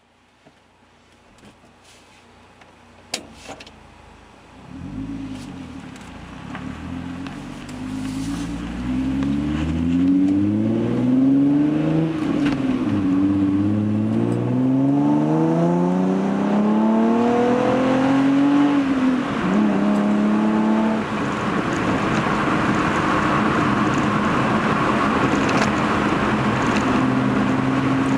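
Hyundai Genesis Coupe 3.8's V6 through a Young Motors catback exhaust, heard from inside the cabin. After a couple of clicks, the engine note comes in about five seconds in and rises in two long pulls with a gear change between them, then drops back and settles into a steady cruise over road noise.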